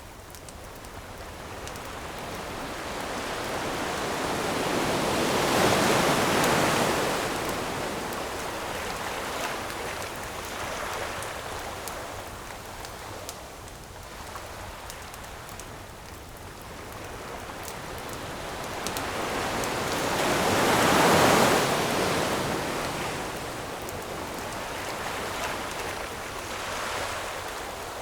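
Ocean waves surging onto the shore, two big waves about fifteen seconds apart, each swelling and falling away, with smaller waves between. Faint campfire crackling sounds through the gaps.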